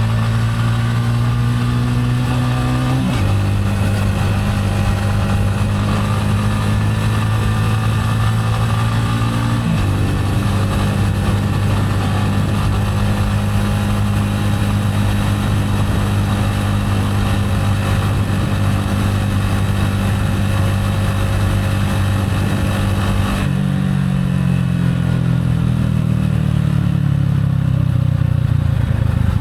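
Gilera AC4 motorcycle engine under way. Its note steps down abruptly twice in the first ten seconds, then holds steady at cruising speed. Near the end the rushing hiss drops away and the engine note falls off gradually.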